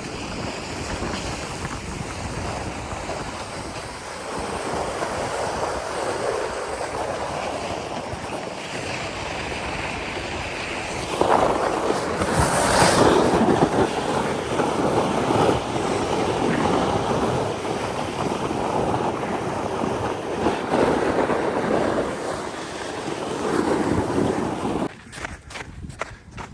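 Wind rushing over the microphone with a hissing, surf-like noise of fast movement that swells and fades, loudest about halfway through, and drops away suddenly near the end.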